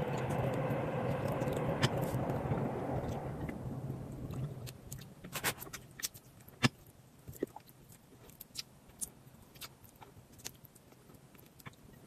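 Chewing and biting on crispy roast chicken, heard as scattered mouth clicks and crunches from about five seconds in. Before that, a rushing noise with a low hum is the loudest sound, fading away over the first four seconds.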